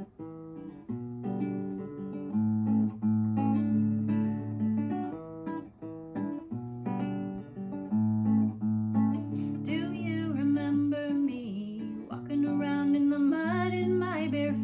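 Music: an acoustic guitar playing a picked and strummed chord pattern, with a singing voice joining about ten seconds in.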